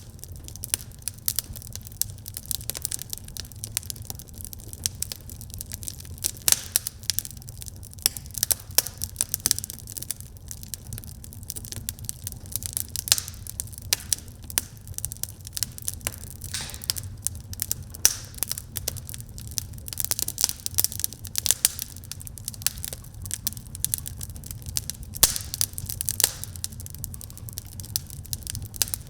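Wood fire burning in a fireplace, crackling and popping constantly with irregular sharp snaps over a steady low rumble of flame.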